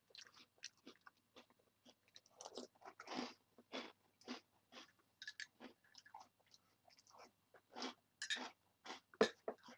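A person eating Corn Pops cereal in chocolate milk: irregular crunching and chewing, close to the microphone.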